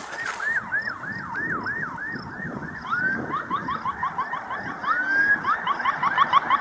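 Electronic police siren in quick repeated up-and-down sweeps, about three a second, speeding up to a faster yelp after a long rising sweep about three seconds in and another near five seconds, growing louder.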